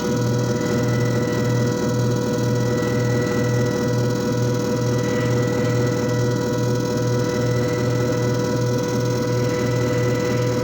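JFJ Easy Pro disc repair machine running steadily, its motor giving a low hum that pulses at a regular, even rate, with several constant whining tones above it.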